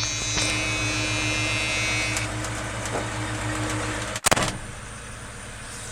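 1978 Ford F-150 4x4's engine idling steadily just after a start, with a high whine that fades out about two seconds in. About four seconds in there is a single loud thump, after which the engine sounds quieter.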